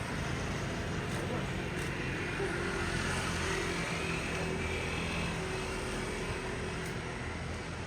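Steady cabin noise inside an Airbus A350-900 airliner in flight: a constant drone of engines and airflow with a low hum underneath.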